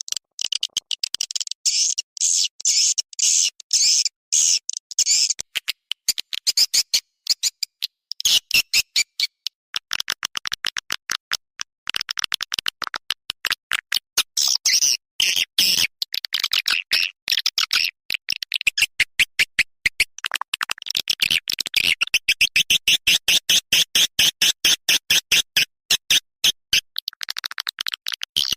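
Swiftlet lure-call recording: rapid, repeated twittering chirps of swiftlets, many per second in pulsing runs with brief breaks, played as a calling sound to draw the birds into a nesting house.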